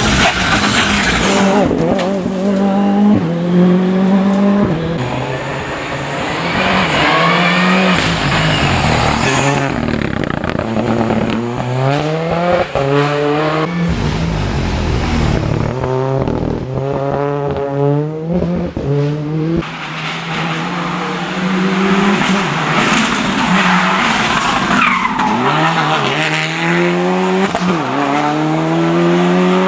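Rally cars at full attack on a special stage. Engines rev hard and climb through the gears, drop off under braking and pick up again out of the corners, with tyre squeal.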